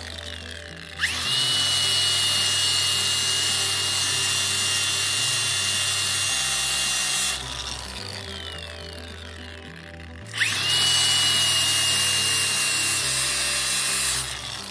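A handheld power grinder trimming a steel jack point, run twice. Each time it spins up quickly to a steady high whine, holds for several seconds, then is released and winds down.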